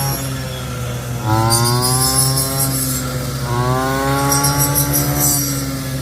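Small petrol engine running and revving up and down in cycles of about two to three seconds, with a high hissing rattle coming in each time it revs up.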